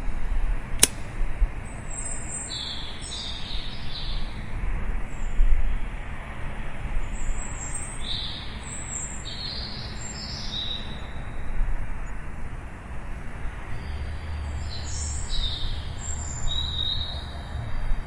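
Small songbirds chirping in three clusters of short, high calls, over a steady low rumble of city traffic that swells a little near the end. A single sharp click sounds about a second in.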